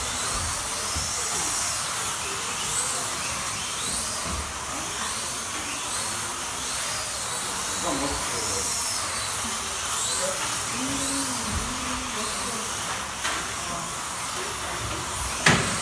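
Small electric motors of slot cars whining on the track, their pitch rising and falling over and over as the cars speed up and slow down through the lap, over a steady hiss. A sharp click or knock near the end.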